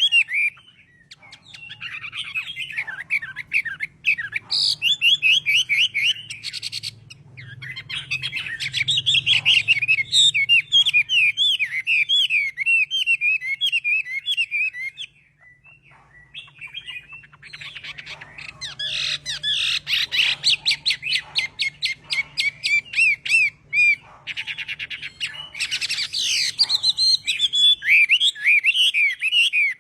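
Chinese hwamei (melodious laughingthrush) singing a long, varied song of rapid whistled phrases and trills, with a short break about halfway through.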